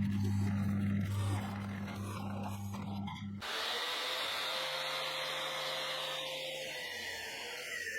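An electric power tool running with a steady low motor hum. About three and a half seconds in it cuts abruptly to a different, higher steady whine.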